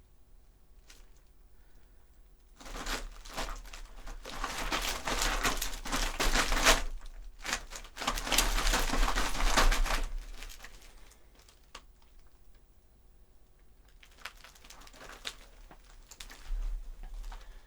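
Foley footsteps: leather shoes treading in a box of gravel, a dense crunching from about three seconds in until about ten seconds in, then fainter, sparser steps near the end.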